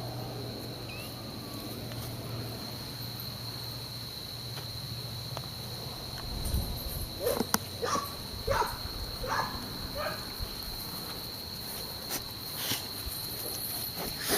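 A steady, high-pitched insect trill, like crickets calling, runs throughout. From about seven to ten seconds in, a quick run of about five short, squeaky animal calls rises over it.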